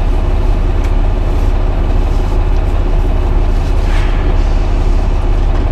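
Semi-truck's diesel engine idling, a steady low rumble heard from inside the cab.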